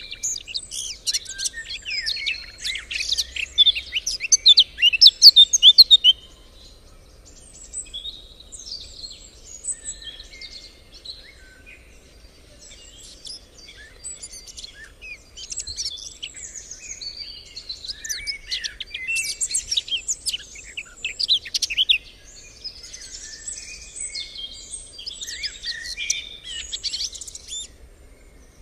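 Songbirds chirping and singing, several calls overlapping in quick, high trills; the densest, loudest stretch comes in the first six seconds, then a sparser chorus carries on.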